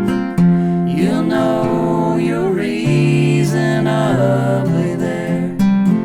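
Acoustic guitar playing a folk song, with a lead melody that bends and slides in pitch over the chords from about a second in; strumming comes back to the fore near the end.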